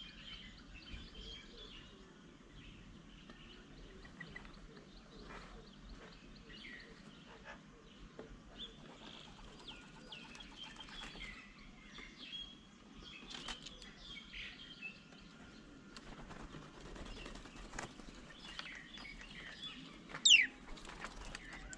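Wild birds chirping and calling around a bird table, many short chirps and trills throughout, with one loud call sweeping down in pitch near the end.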